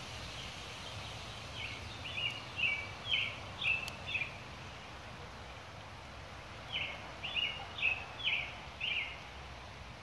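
A songbird sings two phrases of several short, repeated chirping notes, the first about two seconds in and the second about seven seconds in. Behind it is a steady hiss of light rain.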